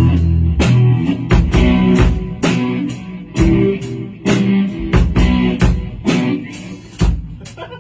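Rock band playing the song with guitars, bass guitar and drum kit, the drums keeping a steady beat.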